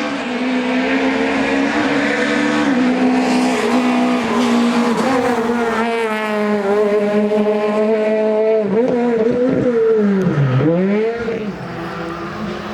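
Rally car engine running hard at high revs, its note holding and shifting with the gear changes; about ten seconds in the revs drop sharply and climb straight back up.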